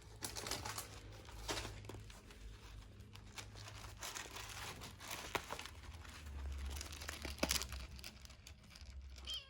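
Irregular rustling and crinkling, as of something handled or pawed at, with a short kitten meow at the very end.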